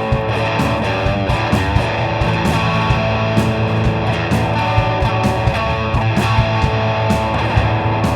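Live rock band playing an instrumental passage with no vocals: electric guitar over bass and drums.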